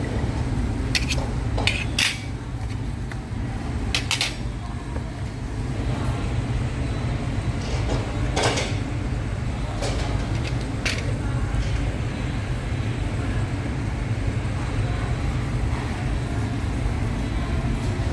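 Cutlery and dishes clinking: several sharp clinks, a cluster in the first few seconds and a few more around the middle, over a steady low background hum.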